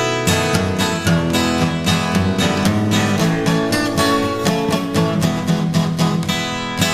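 Instrumental break of an acoustic pop song: strummed acoustic guitar with bass, in a steady rhythm and no singing.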